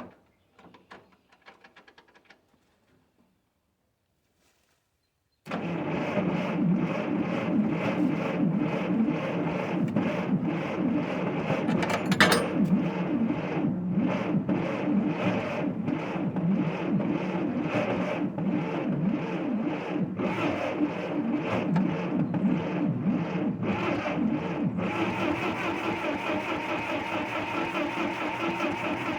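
Starter motor cranking an old engine that has sat for two years, turning it over steadily without it catching. It cuts in suddenly about five seconds in, after a few faint clicks.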